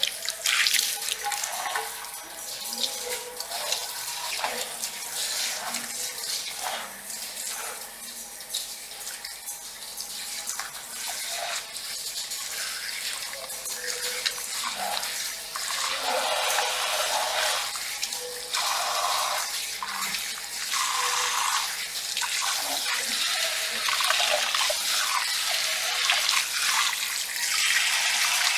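Water running and splashing at a salon hair-wash basin, irregular and slowly growing louder, with rain on a metal roof.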